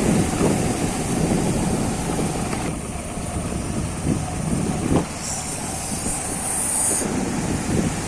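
Wind rumbling and buffeting on the microphone over the noise of a motorbike being ridden. A thin high hiss joins about five seconds in and stops about two seconds later.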